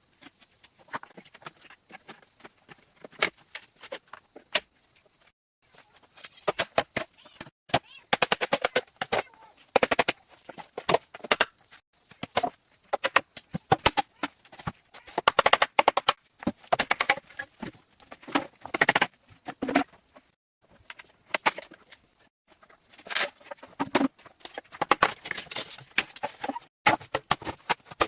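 Rapid, irregular knocks and clicks in clusters, with short pauses about five seconds in and again about twenty seconds in.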